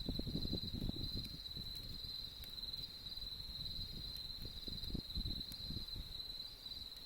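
Autumn insects trilling in a steady, pulsing high chorus over a campfire crackling, with a few sharp pops.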